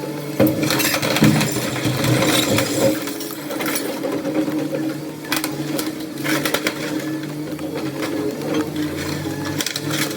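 Steady engine hum of heavy machinery running at a constant speed, with scattered knocks and clattering of debris.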